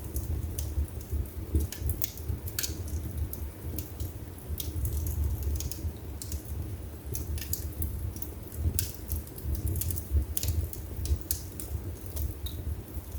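Wood fire burning in a fireplace: a steady low rumble of the flames with irregular sharp crackles and pops from the burning logs, several a second.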